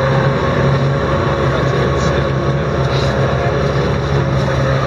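Boat's outboard motor running steadily at a constant pitch, over a steady rush of noise.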